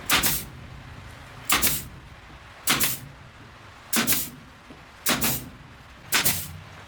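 Six even, rhythmic strokes of a hand tool striking, about one every second and a bit, each a short noisy hit with a brief tail.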